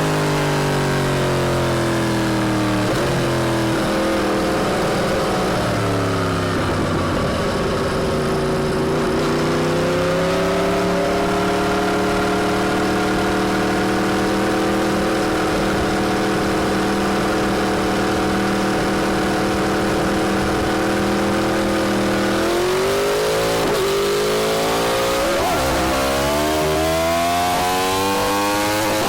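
Yamaha R1's inline-four engine through an Akrapovic exhaust while riding: revs falling at first, then holding steady for about ten seconds, then climbing again through a couple of quick gear changes near the end.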